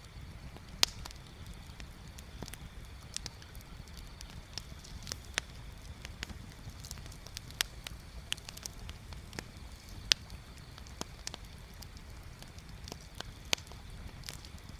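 Wood bonfire crackling, with irregular sharp pops of varying strength, the loudest about a second in, near ten seconds and near the end, over a steady low rumble.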